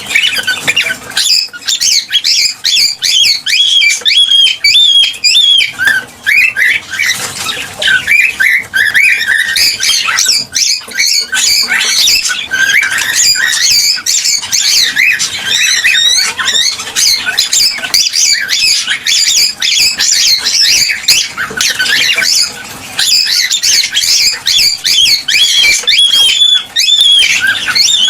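Cockatiels chirping and whistling without a break, many short, rapid calls overlapping.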